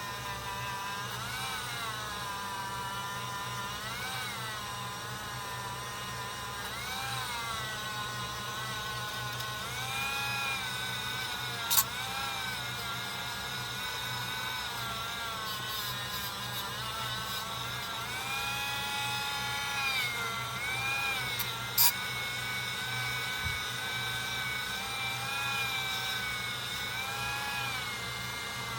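Small motor-driven buffing wheel spinning at high speed, its whine sagging in pitch each time it is pressed against the steel blade and rising again as the pressure eases, over and over. Two sharp clicks about twelve and twenty-two seconds in.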